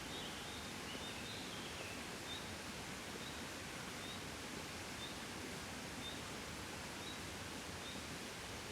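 Soft, steady wind noise. A short high chirp repeats about once a second, and a brief wavering bird call comes about a second in.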